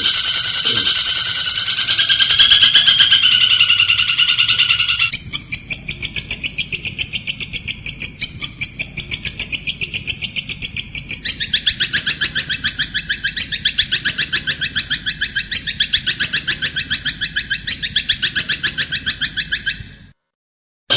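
Recorded bird calls: a rapid, buzzy trill for about five seconds, then a fast, even chatter of many notes a second that grows louder about eleven seconds in. The calls stop suddenly near the end.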